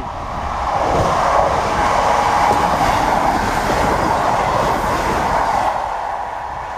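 Train passing through the station at speed without stopping: a loud, steady rush of wheels on rail that builds in the first second and eases near the end.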